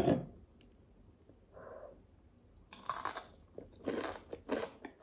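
Biting into and chewing a crispy breaded fish piece: quiet at first, then a crunchy bite about two and a half seconds in, followed by a run of crunching chews roughly every half second.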